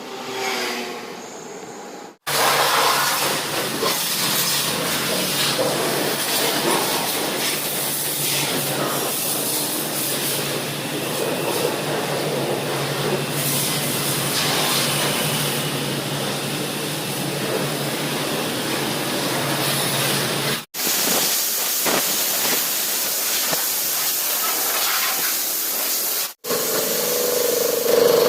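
High-pressure car-wash spray hissing steadily against the vehicle over a steady motor hum, in several clips joined by abrupt cuts.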